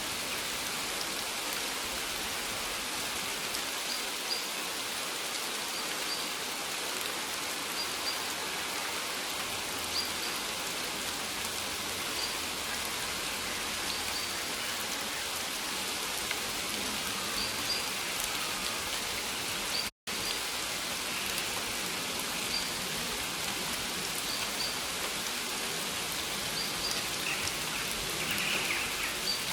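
Steady rain falling, an even hiss of many drops, with small faint high ticks or chirps every couple of seconds. The sound cuts out for an instant about two-thirds of the way through.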